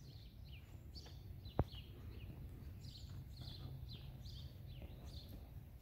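Small birds chirping repeatedly with short falling notes, faint, over a low steady background hum. A single sharp click comes about a second and a half in.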